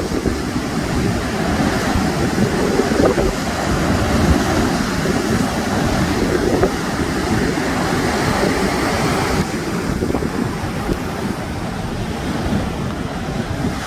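Sea surf washing on the shore, with wind buffeting the microphone; the hiss of the surf eases about two-thirds of the way through.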